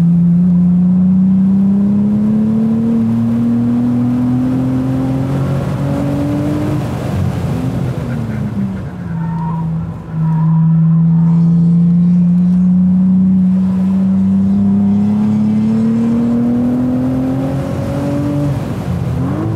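Cadillac ATS-V's twin-turbo V6 under hard acceleration in third gear, its pitch climbing steadily. It drops off through a corner about seven to ten seconds in, climbs again on the straight, and falls away near the end.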